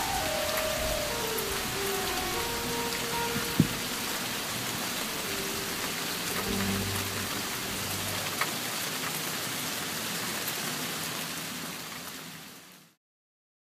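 Steady rain falling, with a few faint music notes in the first half. A sharp drop or tap lands about three and a half seconds in, a smaller one later. Everything fades out near the end.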